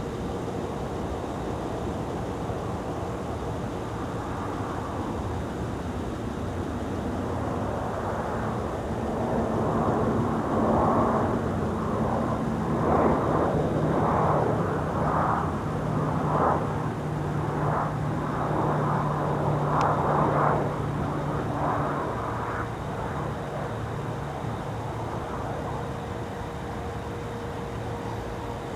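A Lockheed C-130 Hercules running its four turboprop engines. The sound swells louder in the middle with a pulsing beat about once a second, then fades back to a steady drone.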